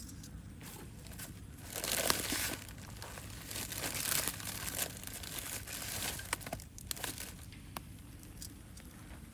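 Crinkling and rustling handling noise in a few bursts of about a second each, with scattered sharp clicks.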